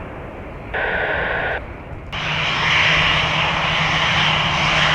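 Airliner engines running steadily, coming in abruptly about two seconds in, with a steady low hum under the noise. Before that, a short burst of air traffic control radio static.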